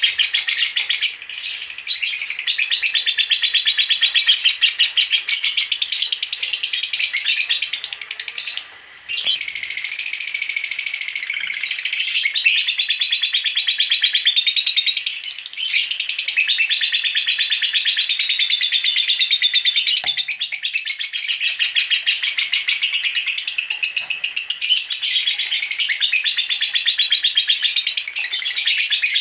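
Female lovebird singing a long, rapid, continuous chattering song ('ngekek'), the dense chirping broken only briefly about nine seconds in. Such an unbroken chatter is what keepers call 'konslet'.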